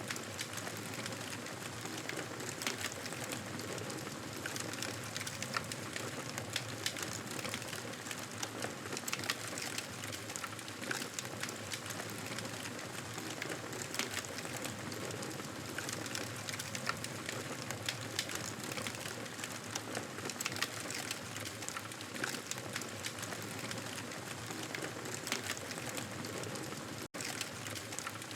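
Wood fire crackling: a steady hiss dotted with frequent small pops and snaps. The sound cuts out for an instant near the end.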